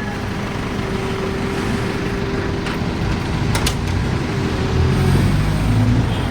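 A truck engine running steadily with a low rumble and a steady hum, getting a little louder about five seconds in, with a couple of faint clicks.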